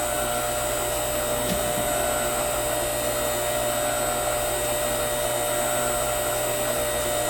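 Electric motor and hydraulic pump of an 8-ton, 3000 W log splitter running steadily at idle: an even whir with a low hum and a few held tones.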